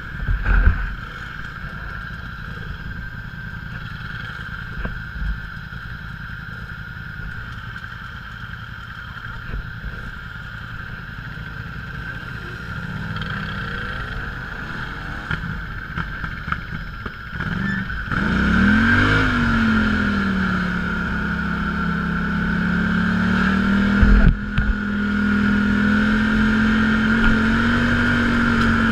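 Off-road vehicle engine running at low speed. About 18 s in it revs up and down, then holds a higher, steady pitch. There are brief knocks near the start and again about 24 s in.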